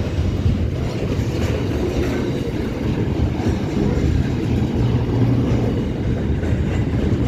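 A train moving along the tracks at the station, making a steady, loud low rumble with no clear rhythm.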